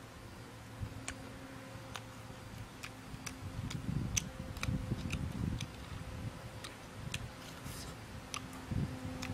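A person eating, with sparse sharp mouth clicks and smacks from chewing about once or twice a second over a faint steady hum. Low rumbling handling noise swells in the middle.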